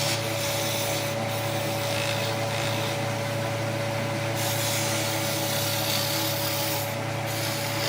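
Electric power tool running steadily on wood: a constant motor hum under the hiss of the wood being worked.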